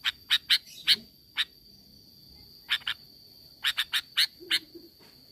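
Sooty-headed bulbul (kutilang) giving short, sharp call notes in quick clusters: four in the first second, one more, a pair near the middle, then a run of five or six near the end. A steady high thin tone runs underneath.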